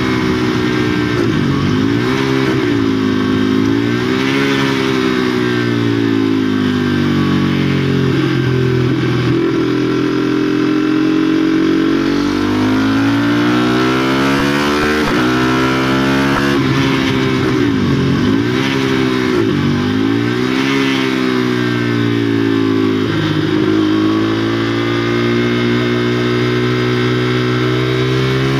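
A 2016 KTM Duke 390's single-cylinder engine running hard through a de-catted (NOCAT) exhaust, heard from the bike. Its pitch swings up and down several times, with quick dips followed by fresh climbs in revs.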